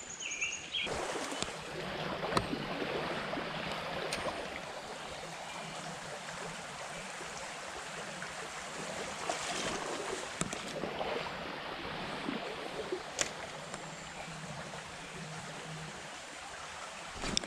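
Small creek's water running steadily over its fast runs, with a few short clicks and knocks here and there.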